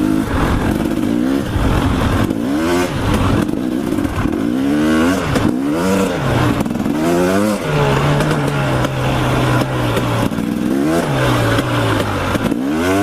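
Dirt bike engine revving up and easing off several times while riding through a berm, with the pitch held steady for about two seconds near the middle.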